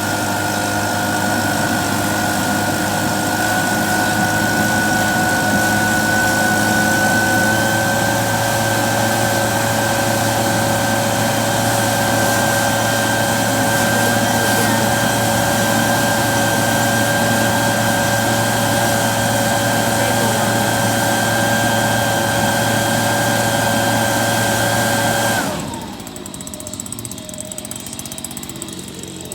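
A motor running steadily with a high whine over a low hum, rising slightly in pitch early on, then cutting off abruptly near the end.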